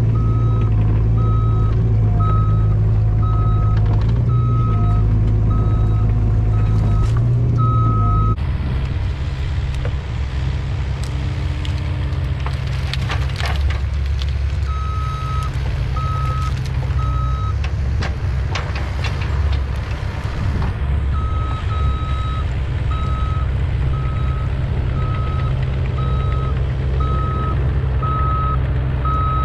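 Mini excavator engine running steadily while its travel alarm beeps about one and a half times a second; the beeping stops for several seconds in the middle and then resumes. Sharp metallic clanks and rattles are heard in the middle stretch.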